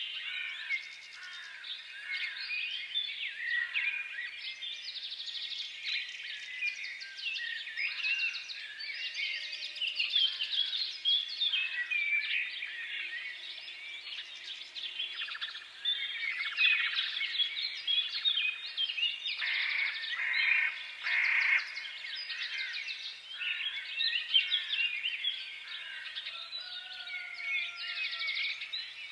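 A chorus of many small birds chirping and twittering at once, short overlapping calls and quick trills with no pause.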